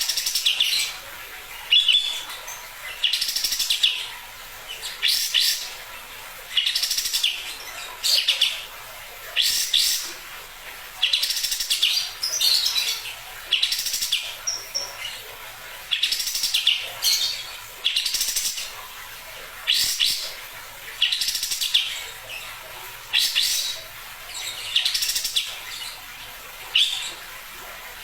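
Kapas tembak songbird singing vigorously in short, loud, high-pitched phrases, one burst about every two seconds. This is the kind of repeated song used as a masteran recording to train other songbirds.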